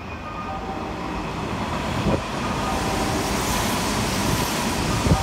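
Commuter electric train running through the station at speed without stopping, a rushing wheel-and-motor noise that grows louder. Two sharp clunks stand out, about two seconds in and again near the end.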